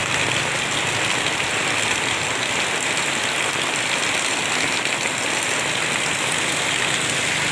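Steady rain falling: a dense, even hiss with no breaks.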